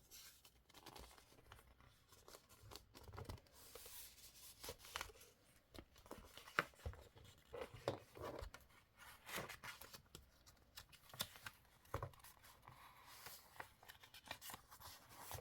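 Quiet paper-crafting sounds: paper and stationery being handled, with irregular rustling and many small sharp clicks and taps.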